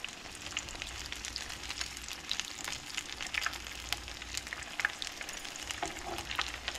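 Egg rolls shallow-frying in hot oil in a skillet: a steady sizzle full of small crackles and pops.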